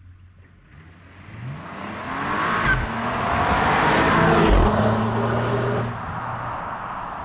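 2022 Bentley Flying Spur Hybrid's 2.9-litre twin-turbo V6 pulling hard, its engine note climbing in pitch and growing louder. The climb is broken by a short low thump almost three seconds in and again about four and a half seconds in, and the sound drops away about six seconds in.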